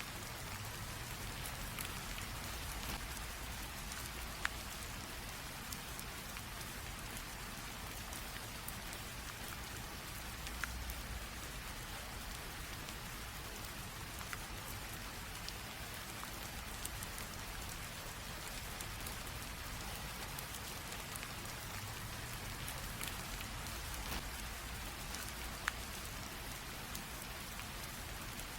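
Light rain drizzle falling steadily, an even patter with scattered distinct drop ticks over a faint low rumble.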